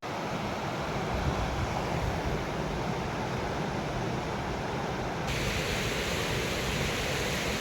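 River rapids rushing in a steady, even wash of noise, with more hiss coming in about five seconds in.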